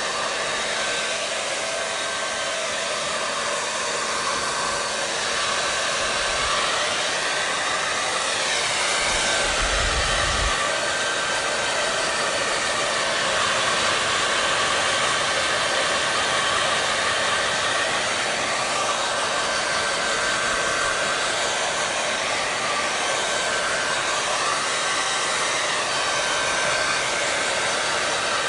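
Hair dryer running steadily: a continuous rushing hiss of air with a faint steady hum under it, its tone sweeping slowly up and down now and then.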